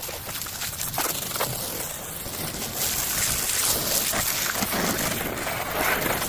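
Car being washed: a steady hiss of water spray against the bodywork, louder from about halfway, with scattered knocks and scrapes of handling.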